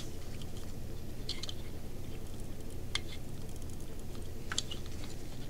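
A steady low hum with a few faint, sharp clicks, one every second or two.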